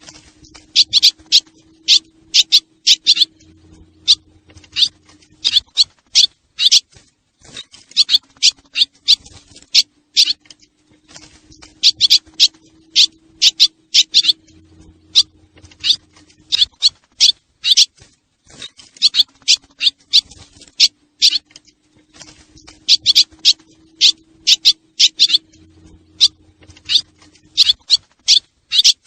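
Recorded swallow calls played as a lure: clusters of rapid, high, sharp chirps. The same phrase repeats about every eleven seconds over a faint low hum, as in a looped recording.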